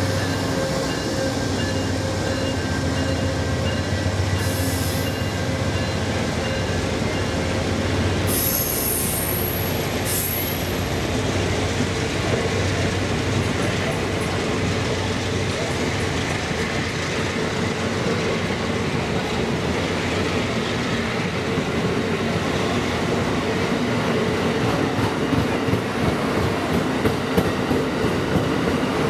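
A train rolling past close by, its wheels running steadily on the rails, with a brief high-pitched wheel squeal about eight seconds in and a run of sharp clicks near the end.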